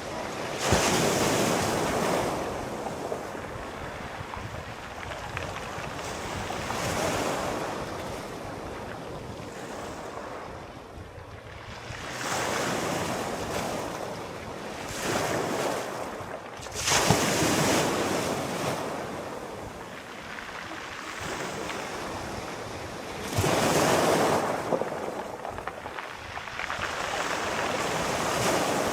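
Sea waves breaking and washing up the shore, swelling and receding in surges every few seconds, with a few louder breaks about a second in, after about seventeen seconds and after about twenty-four seconds.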